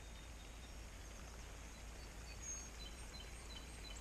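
Faint, scattered high chirps of small birds over a low, steady background rumble.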